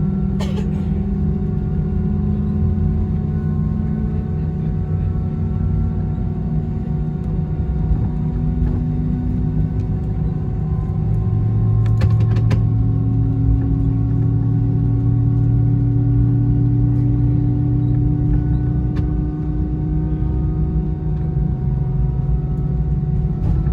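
Airbus A319 jet engines heard from inside the cabin: a steady low rumble with engine tones slowly drifting upward, consistent with the aircraft taxiing at low power. A couple of brief clicks about half a second in and again near the middle.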